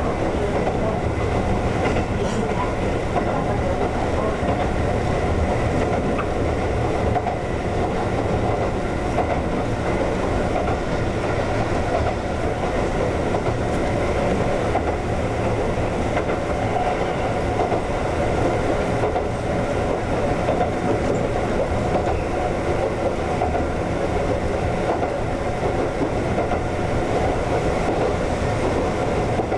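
Konan Railway 7000-series electric train (ex-Tokyu 7000) running at steady speed: an even rumble of wheels on rail with some clickety-clack, and a few faint steady tones over it.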